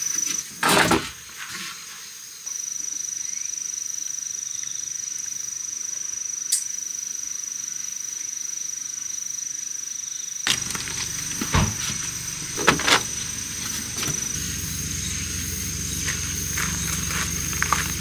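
Insects, likely crickets, singing a steady high-pitched trill, with a few sharp knocks and clatters. About ten seconds in, a low steady rumble starts underneath.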